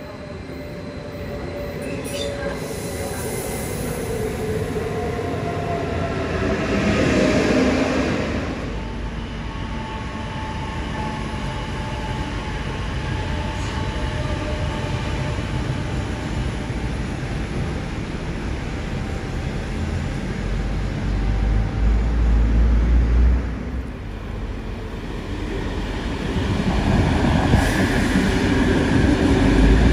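A train running by at close range: a whine falling in pitch over the first several seconds, then steady running noise, a heavy low rumble about two-thirds of the way through, and the noise growing again near the end.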